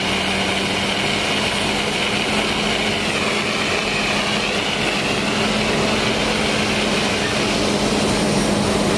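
Steady engine drone with a constant low hum and a higher whine that wavers slightly a few seconds in.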